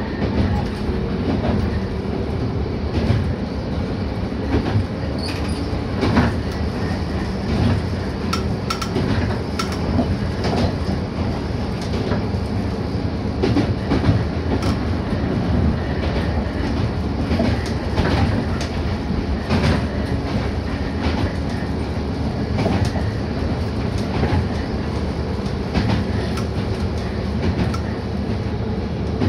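Toyama Chihō Railway electric train running along the track, heard from inside the car. A steady rumbling running noise, with irregular clicks and knocks of the wheels passing over rail joints.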